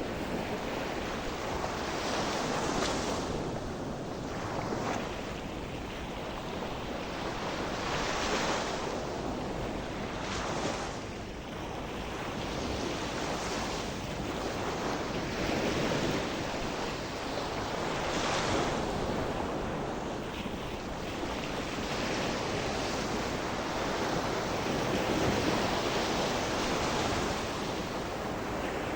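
Gentle sea surf: waves washing in and breaking on the shore one after another every few seconds, over a steady hiss of water.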